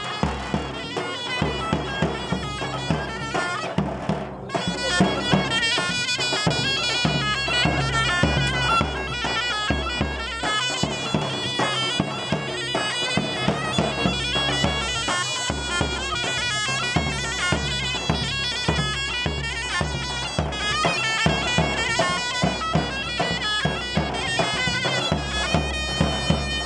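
Zurna and davul playing a halay dance tune: a reedy, piercing pipe melody over a steady bass-drum beat.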